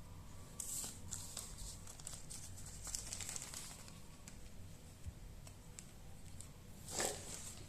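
Close handling noise: crinkling and rustling with small clicks, in a few bursts, the loudest near the end, over a faint steady hum.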